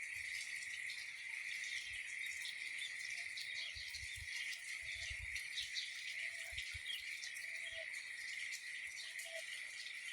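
Outdoor rural ambience: a steady high insect drone with scattered bird chirps over it, and a short lower call repeating about once a second from about three seconds in.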